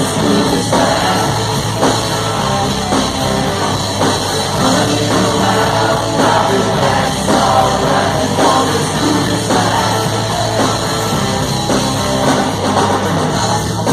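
A rock band playing loudly through a concert PA with a steady drum beat.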